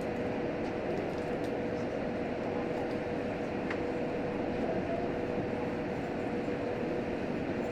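Cabin running noise of a JR Hokkaido H100 diesel-electric railcar under way: a steady rumble of wheels on rail, with a steady tone running through it.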